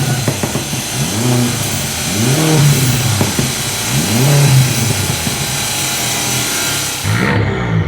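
Turbocharged 1.8-litre 20-valve four-cylinder engine (VW 1.8T) revved up and down repeatedly, each rev rising and falling in pitch over about a second. Near the end the sound changes abruptly to a steadier, lower engine note.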